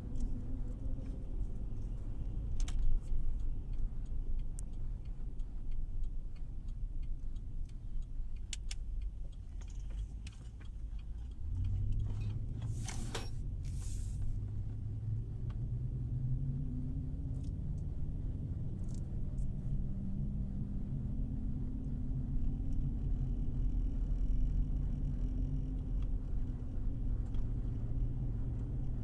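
Cadillac Escalade driving on the road: steady engine and tyre rumble that grows louder about halfway through as the truck picks up speed. There are a few scattered clicks and a short hiss just after that. No wheel-bearing hum remains now that the front wheel bearing has been replaced.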